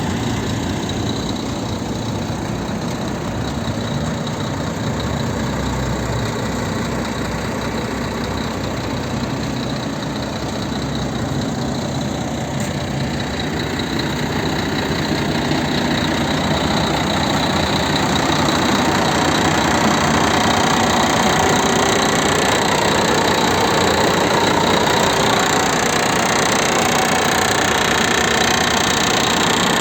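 Scania G 380 truck's six-cylinder diesel engine idling steadily, growing a little louder about halfway through.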